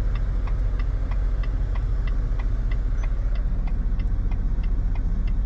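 Semi-truck diesel engine idling low and steady, heard from inside the cab while the rig is backed slowly into a parking space, with a light ticking about three times a second.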